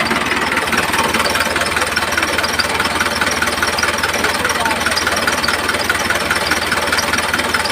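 Tractor engine idling with a steady, rapid, even putter.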